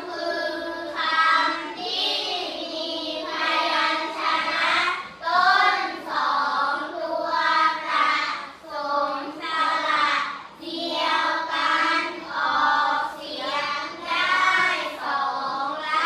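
A group of young children singing together in unison, holding long notes with a steady rhythm.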